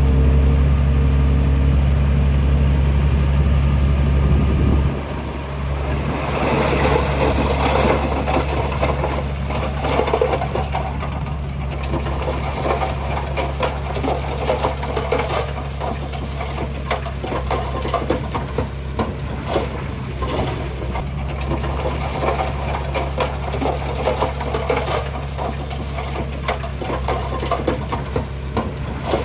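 Heavy diesel earthmoving machine running steadily, louder for about the first five seconds and then dropping back. After that a dense, continuous crackling clatter sits over the engine.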